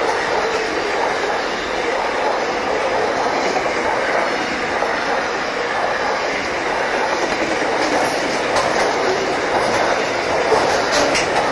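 Wagons of a long freight train rolling past: the steady rumble and rattle of steel wheels on the rails, with a few sharp clicks in the last few seconds.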